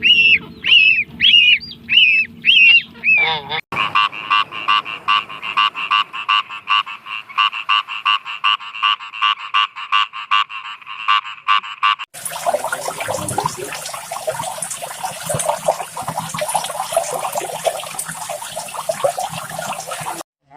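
Recorded animal calls cut one after another. First comes a run of loud honking calls, about two a second. About four seconds in it switches to a fast, even train of short calls, about five a second. About twelve seconds in that gives way to a dense chorus of many birds calling over one another.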